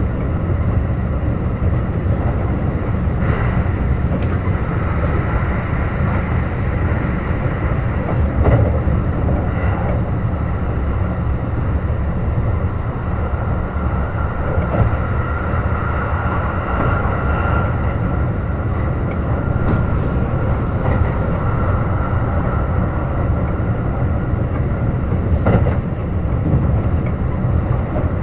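Kintetsu Urban Liner Plus limited-express electric train running at speed, heard from on board: a steady heavy rumble of wheels on rail with a faint whine. A few sharp knocks come through, one about a third of the way in and two more later.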